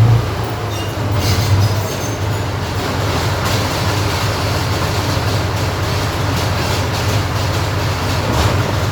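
Armoured recovery vehicle's engine running with a steady, loud low rumble and a rattling, clattering noise over it.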